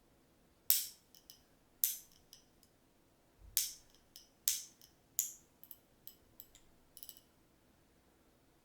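A series of sharp, bright clicks from kitchen work, about seven strong ones spread over six seconds with lighter ticks between them, each ringing briefly.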